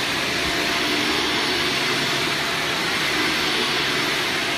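Electric vacuum cleaner running steadily on carpet, a constant even whoosh with a faint motor hum.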